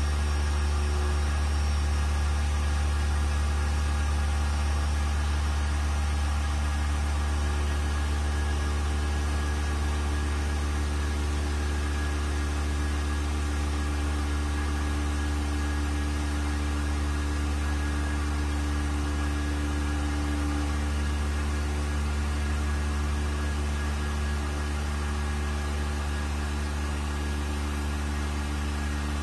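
Vacuum pump running steadily with a constant low hum, drawing a vacuum on a sealed mixer chamber as the vacuum rises.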